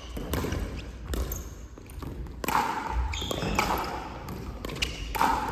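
Irregular knocks and thuds that echo, as of a ball bouncing or being hit in a large hall.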